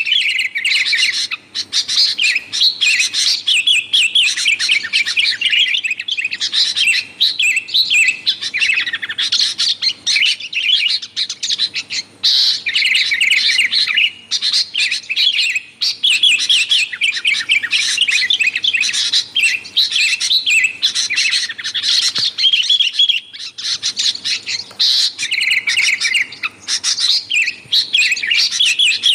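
Sooty-headed bulbuls (kutilang) chattering noisily: a dense run of rapid, bubbling chirps with only brief pauses.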